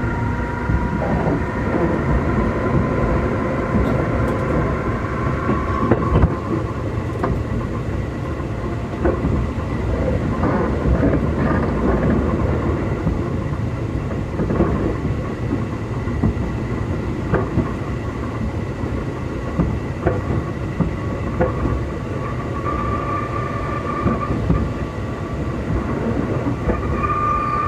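Running noise inside a Keikyu 2000-series electric motor car at low speed: a steady rumble of wheels on rail with scattered clicks. The traction motors, which the uploader believes are Mitsubishi-made, whine in several tones at first, fade out, then whine again near the end.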